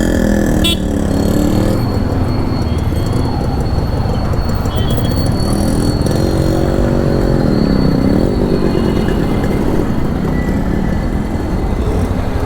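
Motorcycle engine running under way, over a steady low rumble of wind and road noise. The engine pitch drops and climbs again about two-thirds of the way through.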